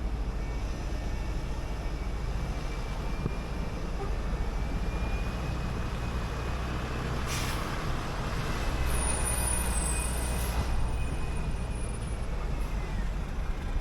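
City bus driving, its engine running steadily with a faint whine. Air hisses from the brakes briefly about halfway through and again a few seconds later.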